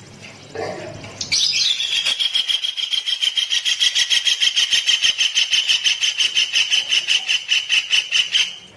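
A songbird's long, fast trill of evenly repeated high notes, about eight a second at one steady pitch, starting about a second in and cutting off near the end. A brief lower call comes just before it.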